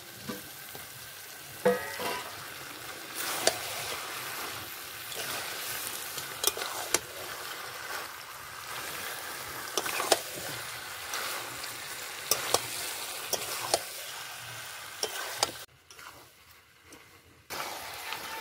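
Chicken and potato pieces sizzling as they fry in oil and spice paste in a metal karahi, while a metal spatula stirs them with frequent sharp scrapes and knocks against the pan. This is the dry sautéing stage, cooking the meat until the oil separates. The sizzle drops away for about two seconds near the end, then returns.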